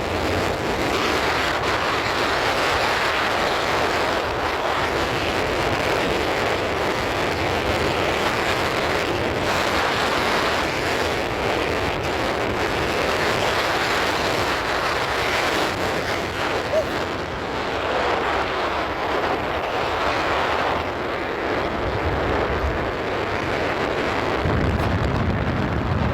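Wind rushing over the microphone of a moving vehicle: a steady, loud noise with vehicle noise underneath.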